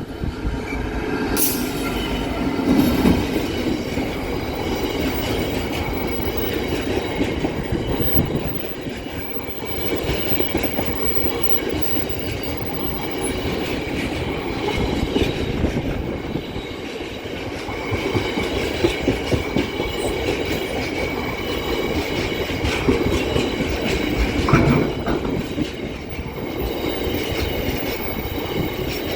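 Freight train hauled by a Class 66 diesel locomotive rolling slowly past, its wagon wheels clattering over the rail joints with some wheel squeal.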